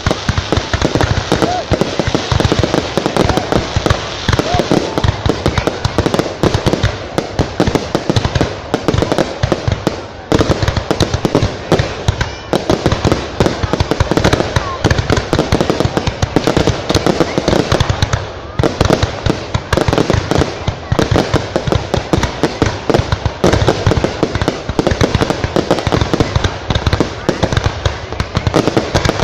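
Fireworks display: a dense, continuous barrage of bangs and crackling bursts, with brief lulls about ten and eighteen seconds in.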